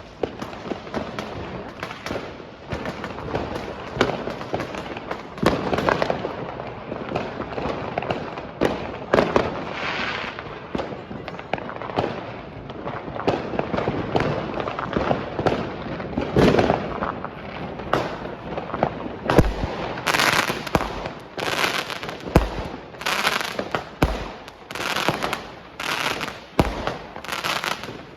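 Fireworks going off: many overlapping bangs and crackles without pause. About two-thirds of the way in, a run of loud bangs starts, roughly one a second.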